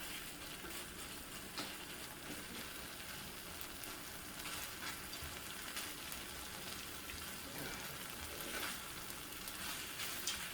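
Squid and pork belly stir-fry sizzling steadily on a hot iron griddle pan, with faint scrapes and clicks of stirring.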